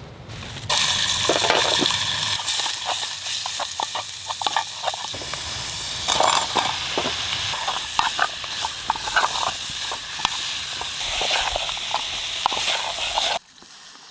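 Food frying in a camp pot: a steady sizzle with scattered pops and crackles, cutting off sharply near the end.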